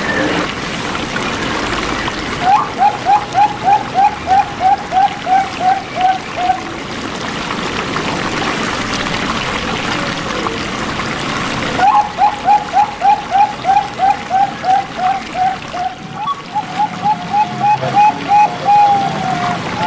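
Zebra dove (perkutut) song: two long runs of short, evenly repeated cooing notes, about three a second, the second run starting about twelve seconds in and trailing into a few looser notes near the end. A steady hiss like running water lies underneath.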